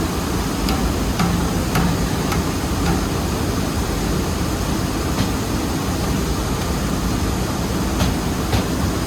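Rice mill machinery running with a steady dense roar. Eight or so sharp metallic knocks and clinks come at irregular times, from tools and parts being handled during a conveyor bearing repair.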